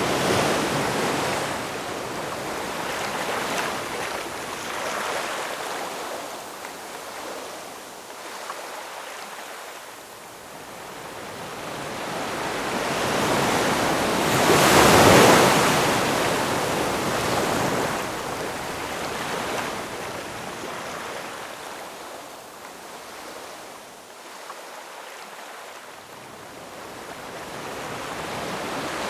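Ocean waves washing onto a shore, the surf swelling and ebbing in slow surges, the biggest wave breaking about halfway through.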